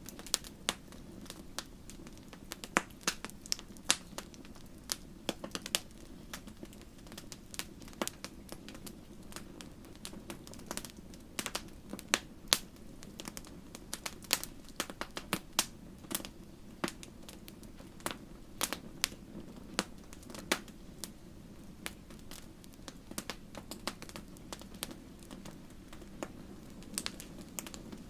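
Wood fire crackling: irregular sharp pops and snaps, several a second, over a soft steady hiss of the flames.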